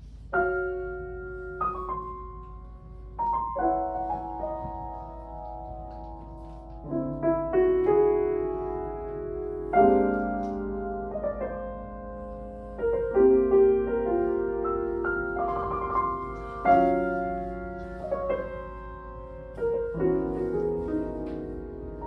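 Solo piano playing a slow, lyrical classical piece, chords struck every second or two and left to ring.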